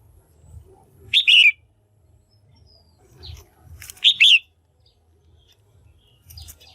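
Female red-whiskered bulbul calling: two short, loud bursts of chirping notes, about a second in and again about four seconds in, over a faint low rumble.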